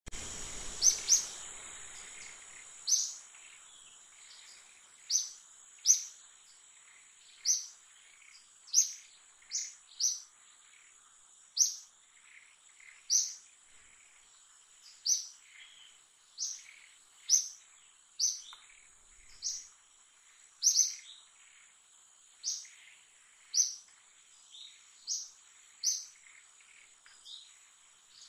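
A bird repeating a short, high chirp about once a second, over a steady high-pitched insect drone.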